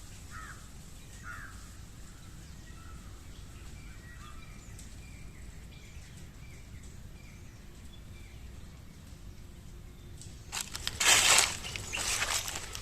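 Outdoor ambience with a low steady rumble and faint, short bird calls. About ten seconds in, a loud rustling, crunching noise comes in bursts and dominates the rest.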